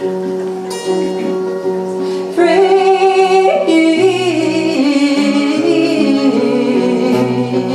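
Live music closing a song: a woman's voice holding long, slightly wavering notes over sustained instrumental accompaniment.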